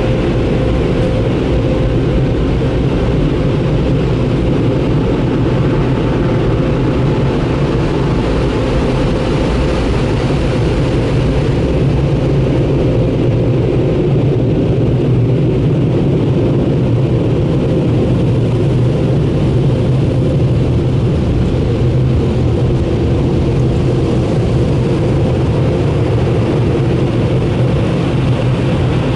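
Touchless car wash's air-dryer blowers running steadily: a loud, even rush of air with a low hum underneath.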